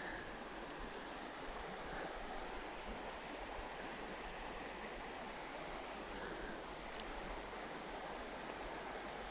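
Creek water running steadily over shallows, a soft even rush.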